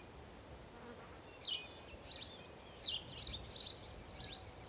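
Small songbird chirping: short, high chirps in quick clusters, starting about a second and a half in, over a faint steady background hiss.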